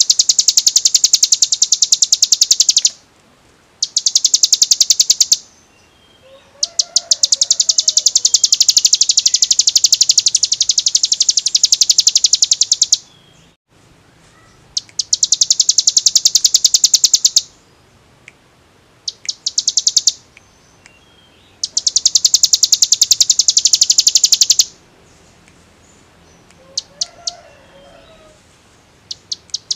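Ciblek gunung (a prinia) singing its 'ngebren' song: very rapid, high-pitched, drill-like rattling trills in bouts of one to six seconds with short pauses between, the longest bout about a third of the way in. A faint lower call sounds twice behind it.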